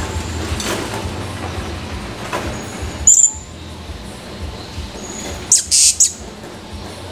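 Blue-crowned hanging parrot (serindit) giving sharp high-pitched calls: one short call about three seconds in and a quick burst of several around five and a half to six seconds. A steady rumbling background noise runs underneath.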